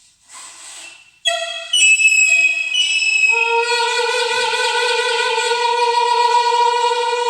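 Saxophone: a second of breathy air noise, then a few short notes, and from about three seconds in one long held note.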